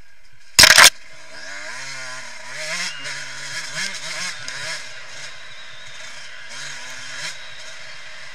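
2014 Yamaha YZ125 two-stroke motocross engine revving up and down as the throttle is worked, its pitch rising and falling repeatedly, heard from a camera mounted on the bike. A very loud, short knock hits the microphone less than a second in.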